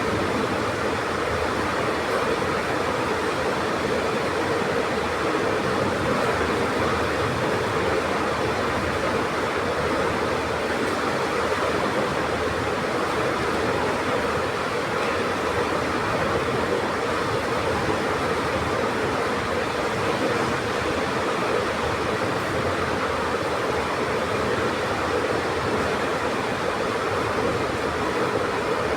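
Heavy rain falling, a steady rushing downpour that does not let up.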